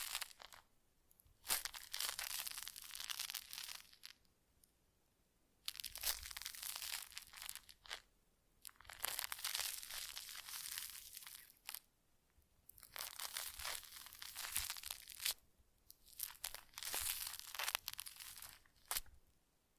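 Close-miked ASMR scratching and crinkling from facial-care rubbing, in repeated strokes of two to three seconds separated by short pauses.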